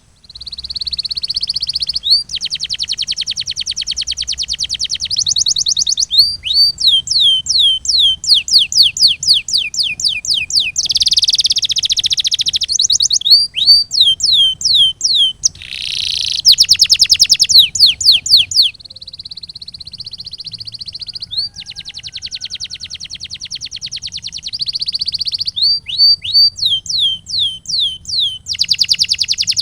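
Canary singing. Fast rolling trills alternate with runs of sharp, downward-sweeping whistled notes, several a second.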